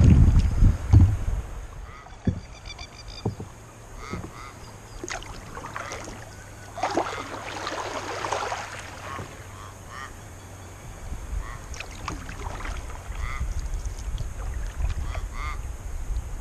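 Water sounds in a shallow rocky river around a kayak, with birds giving short repeated calls throughout. A longer splashing swell of water comes about seven seconds in.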